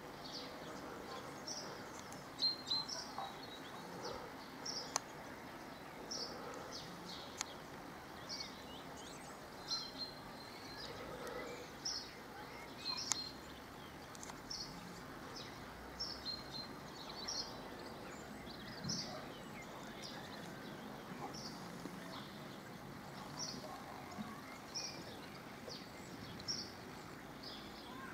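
Small songbirds chirping, short high calls about once a second, over faint outdoor background noise.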